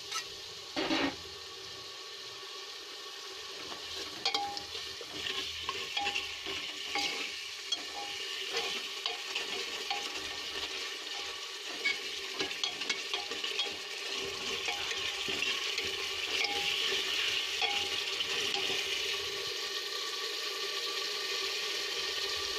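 Onion, ginger and garlic masala with ground spices sizzling in oil in an aluminium pot while a steel ladle stirs it, clinking and scraping against the pot. There is a louder knock about a second in, and the sizzle grows stronger through the middle as the masala is fried.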